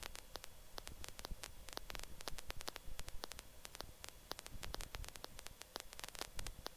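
Faint static on the helicopter's radio and intercom audio: irregular crackling clicks over a low hum, between transmissions.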